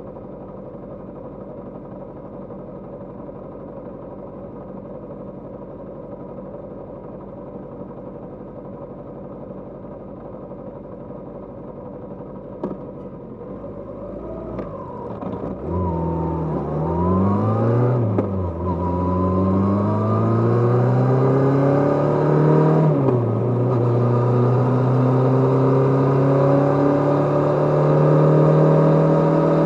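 Kawasaki GPz550's inline-four engine idling steadily, then about halfway through pulling away: the revs climb and drop through several gear changes, and the engine then runs at a steady, slowly rising pitch, louder than at idle.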